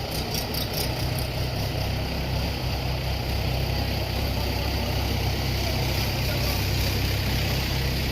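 An engine running steadily at a constant low hum, starting about a second in.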